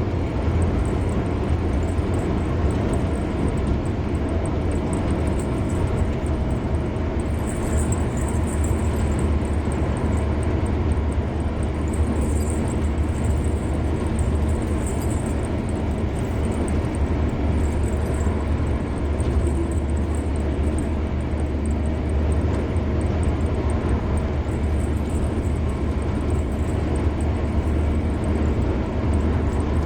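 Steady road noise of a car driving at speed: an even mix of tyre noise and engine hum, heaviest in the low end.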